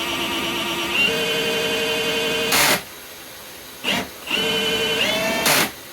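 Milwaukee M18 Fuel cordless hammer drill spinning a flexshaft drain-cleaning cable in a sewer line, run in two bursts to knock out a last root strand. Its motor whine steps up in pitch partway through each run, and each run ends in a short loud rasp as it stops.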